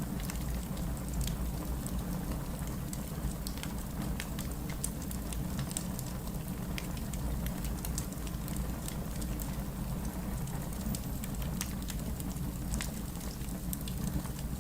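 Steady heavy rain with a low rumble, mixed with a wood fire crackling in frequent small, sharp pops.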